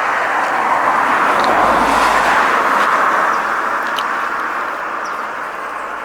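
A car driving past, its tyre noise swelling to a peak about two seconds in and then fading away.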